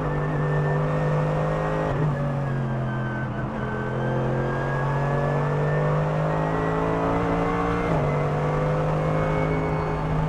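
Mercedes-AMG GT3 race car's 6.2-litre naturally aspirated V8 running hard, heard from inside the cockpit. Its pitch drops at a gear change about two seconds in, climbs slowly, then jumps up again at another gear change near eight seconds.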